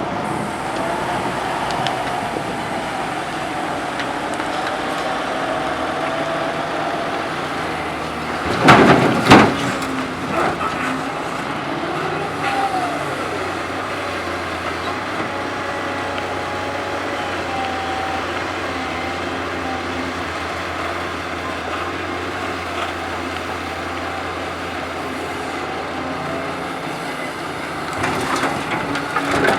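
Doosan hydraulic excavator's diesel engine running steadily under hydraulic load, with a rising and falling hydraulic whine. About nine seconds in there are two loud crashes of a bucketload of soil dumped into the steel bed of a dump truck, with more clattering near the end.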